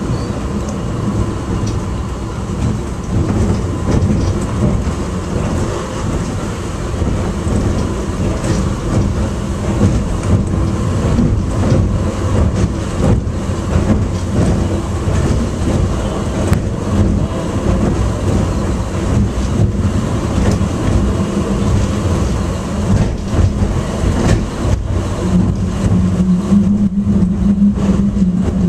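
Airport subway train running: a steady rumble and rattle of the car moving along its track. About 25 seconds in, a low steady hum comes in and steps slightly higher a second later.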